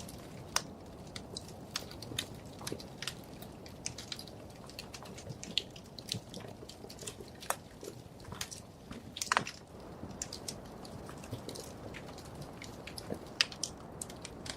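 Wood fire crackling in a fireplace: irregular sharp pops and snaps, several a second, over a low steady rush of the flames, with a few louder snaps.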